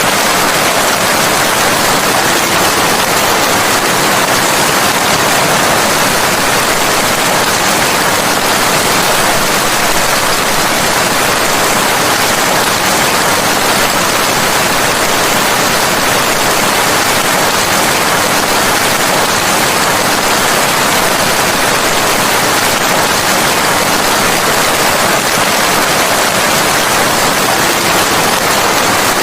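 Steady rain making an even, continuous hiss, with no separate drop hits or thunder standing out.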